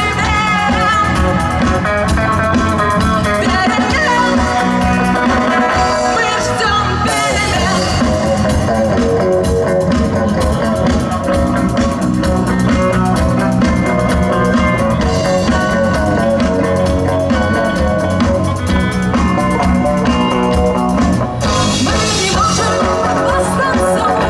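Rock band playing live, a continuous stretch of a song with guitar and drums.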